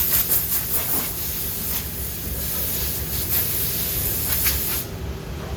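Air hissing in quick pulses over the steady low hum of machinery at a CNC router during a sheet changeover; the hiss cuts off near the end.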